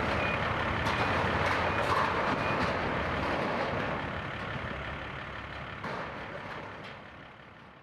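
Heavy vehicle engine running with a short, high reversing beep sounding four times, then fading out near the end.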